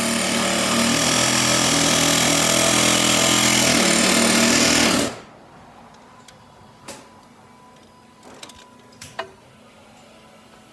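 Loud, steady mechanical rattling for about five seconds that cuts off suddenly, followed by a few faint clicks.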